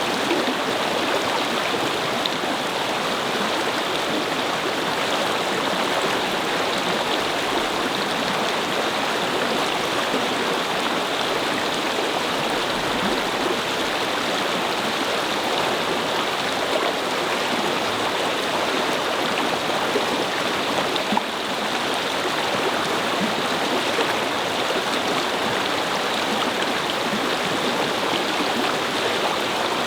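A brook flowing over stones, a steady babbling rush of water.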